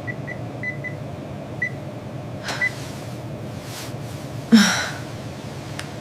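Short, high electronic beeps, irregularly spaced and mostly in the first three seconds, over a steady low room hum. One louder, sharp rasping sound comes about four and a half seconds in.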